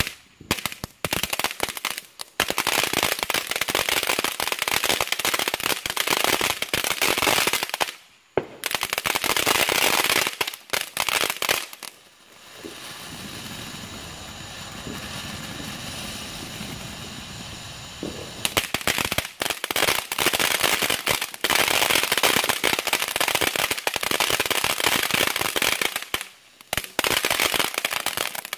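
Dust Devil consumer firework going off: long runs of rapid, dense crackling broken by short gaps, with a quieter hissing stretch of several seconds in the middle.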